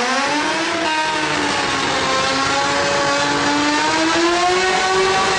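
Naturally aspirated rotary engine at full throttle on a drag-strip pass. Its pitch climbs steadily as it pulls through the gear, with a brief step about a second in.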